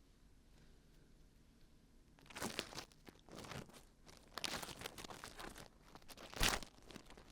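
Dried glue being peeled off the ears of a binaural dummy-head microphone, heard close up as a crackly peeling sound. It comes in several bursts, starting about two seconds in after a quiet start.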